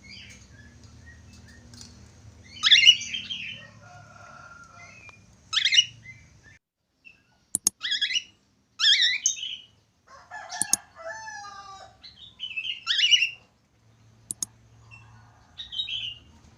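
Budgerigar chirping and warbling in short calls of a second or less, spaced a second or few apart, with a few sharp clicks among them.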